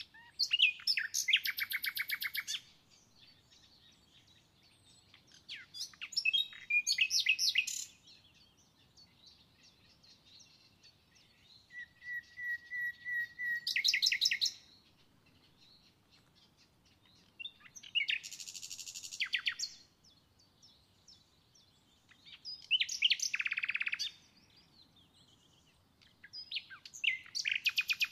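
A songbird singing in six separate phrases of rapid trilled notes, high-pitched, about one phrase every five seconds with quiet gaps between.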